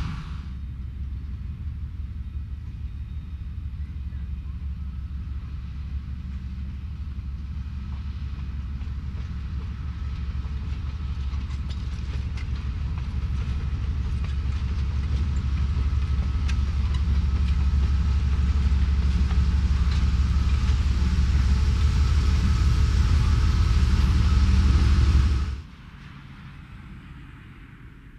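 Passenger train rolling past: a steady low rumble of wheels on rail with scattered clicks, growing louder, then cutting off suddenly near the end.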